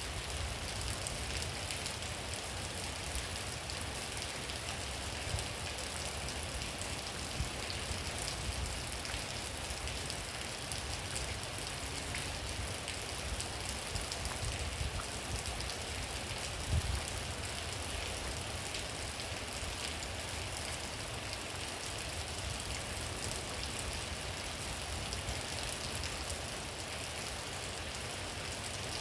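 Steady rainfall, an even hiss with scattered sharper drop sounds and a low rumble underneath.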